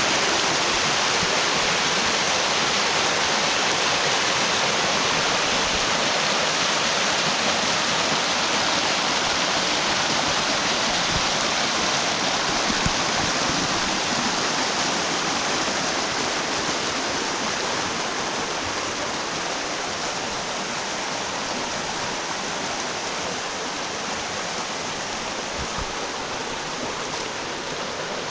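Mountain stream running full after rain: a steady rush of water over rocks that grows a little quieter in the second half.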